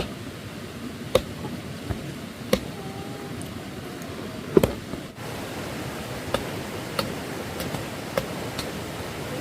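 A series of sharp knocks or strikes at irregular intervals, roughly one every one to two seconds, over a steady hiss.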